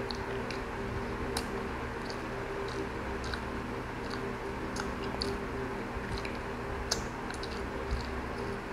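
Close-miked chewing of fried chicken lumpia: scattered small wet mouth clicks and soft crunches, irregular, over a steady low hum.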